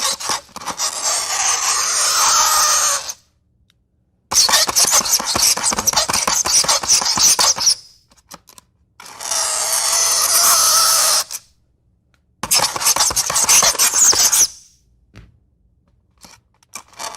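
Fingernails scraping across a chalkboard: a loud, screeching scrape repeated in long strokes of two to four seconds each, with short silent gaps between them.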